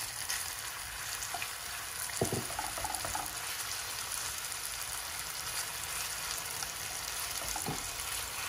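Raw chicken breast pieces sizzling steadily in hot oil in a non-stick frying pan over high heat, moved around with a wooden spoon, with a couple of brief knocks about two seconds in and near the end.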